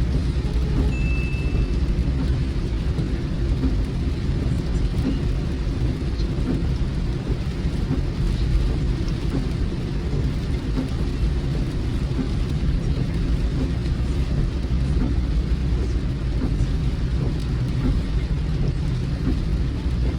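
Rain on a moving car with a steady, heavy low rumble of the road and engine underneath.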